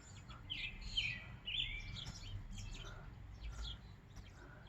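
Small birds chirping: rapid short high chirps throughout, with a few longer sweeping calls about half a second to two seconds in.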